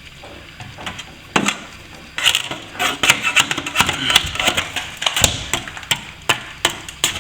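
Hand tool scraping and chipping old paint off a plaster wall-ceiling joint: irregular scratching strokes and sharp ticks, sparse at first and then quick and continuous from about two seconds in.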